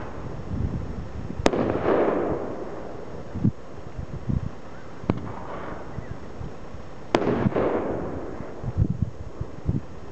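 Aerial firework shells bursting: three sharp bangs, about a second and a half in, about five seconds in and about seven seconds in. The first and last are the loudest, and each trails off in a rumble lasting about a second. Dull low thumps fall in between.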